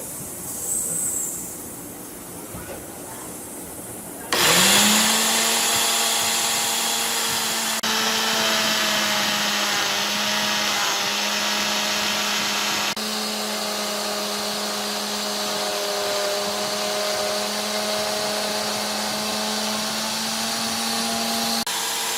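Angle grinder motor driving a homemade curve sander spins up about four seconds in, then runs at a steady pitch with a wide hiss. Its level shifts abruptly a few times.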